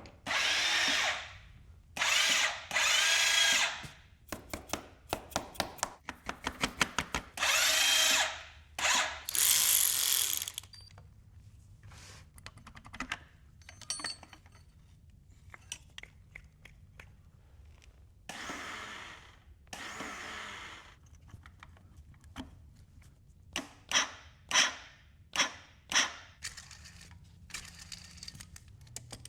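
Power drill run in short bursts of about a second each, about a dozen times, with runs of quick clicks between the bursts.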